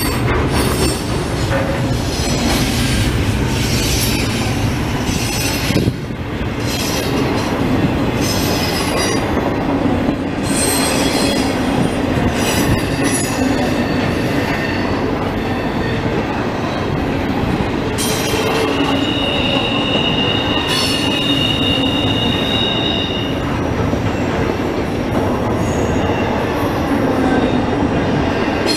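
Freight train of double-stack container well cars rolling past: a steady, loud rumble and clatter of steel wheels on the rails. A sharp knock comes about six seconds in. A high two-tone wheel squeal rises out of it past the middle and lasts about five seconds.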